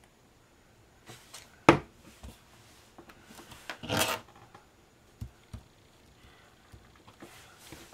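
Paper and card being handled on a craft table: a sharp tap just under two seconds in, a short rustle about four seconds in, and a few soft clicks after that.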